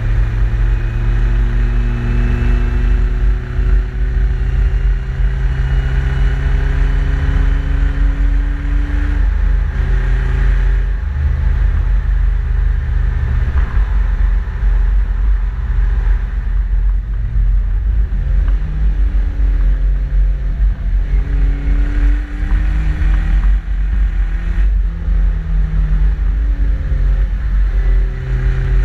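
Exhaust of a modified Suzuki Jimny under way. The engine note climbs steadily for about nine seconds, then drops at a gear change. It changes pitch several more times as it is driven on, over a heavy low rumble throughout.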